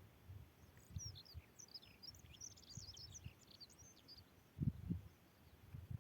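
A small bird twittering, a quick flurry of short high chirps for a few seconds, with low gusts of wind buffeting the microphone, the strongest near the end.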